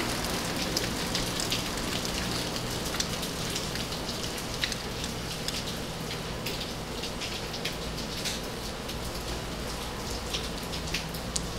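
Steady rain falling, with individual drops ticking sharply on nearby surfaces scattered through it.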